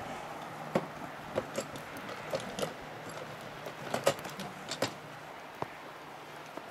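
Footsteps crunching in snow, irregular steps with a few sharper clicks among them, over a faint steady low hum.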